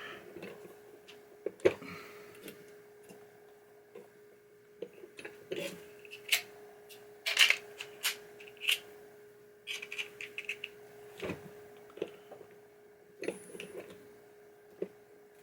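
Scattered clicks, taps and short scrapes of small metal parts and hand tools being handled while a pinball drop target assembly is put together, over a faint steady hum.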